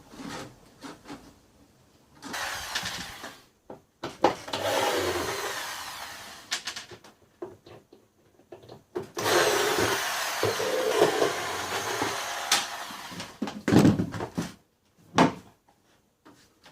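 Homemade fruit-cutting machine, driven by a small 150 W grinder motor, running in three bursts, the last and longest about five seconds, followed by a few short knocks.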